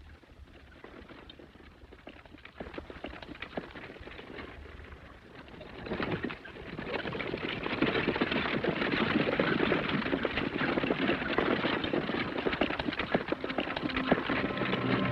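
Hoofbeats of horses at speed: a dense, quick patter of hoof strikes that starts faint and grows much louder about six seconds in, as if approaching.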